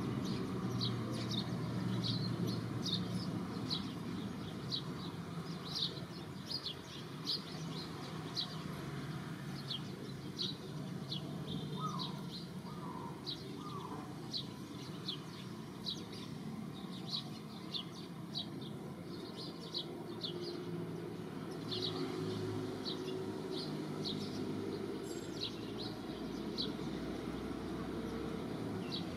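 A small bird chirping over and over, short high chirps about one or two a second, over a steady low background rumble.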